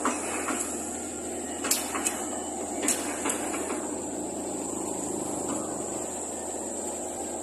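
Heavy construction machinery running steadily, with a few sharp metallic knocks in the first three seconds.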